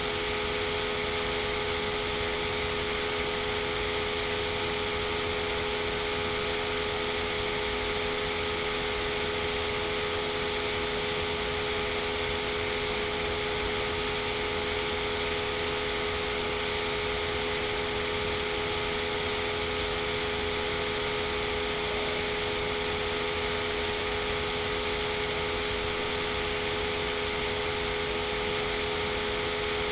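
Steady machine hum and hiss, with a few constant tones and no change throughout.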